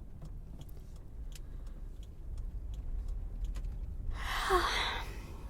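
Steady low rumble of a car interior on the road, with faint scattered clicks, and a woman's breathy sigh about four seconds in.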